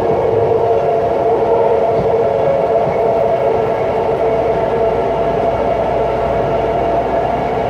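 BART train running at speed: loud, steady rail and wheel noise with a steady whine over it.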